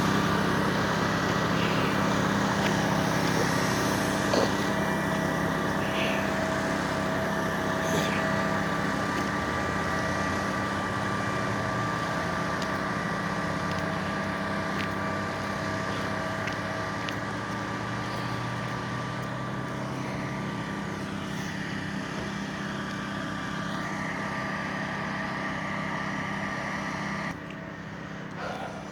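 A vehicle engine running steadily, a constant hum with a high whine over it, cutting off abruptly near the end.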